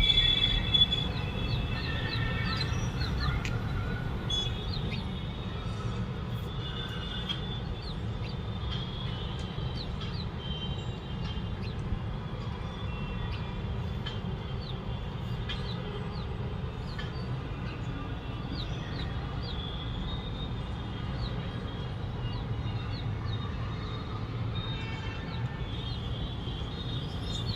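Small birds chirping around their nest, many short high calls repeated through the whole stretch, over a steady low rumble.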